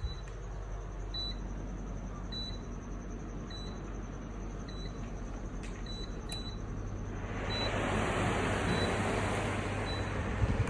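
Portable air cooler's fan running with a steady low hum; about seven seconds in, a rush of airflow swells up as the fan speeds up. Short high beeps repeat about once a second.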